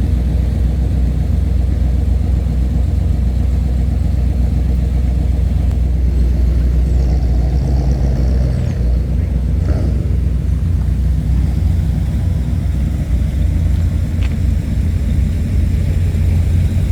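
Car engine idling close by, a steady low rumble, with a brief click about fourteen seconds in.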